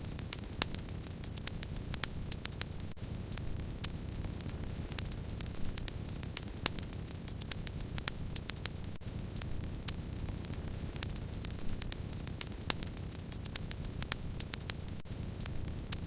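Wood fire burning: a steady low rush of flame with frequent, irregular crackles and sharp pops, some louder than others.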